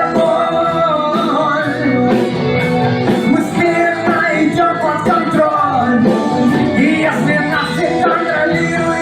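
Rock band music: a melody line that bends in pitch over a steady, full accompaniment, with no clear sung words.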